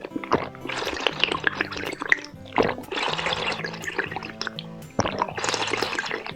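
Close-miked eating: wet chewing, smacking and squelching, with many sharp clicks, over background music with held notes.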